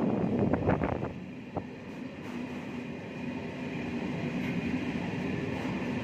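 Steady running noise of a moving vehicle, with a few short knocks in the first second.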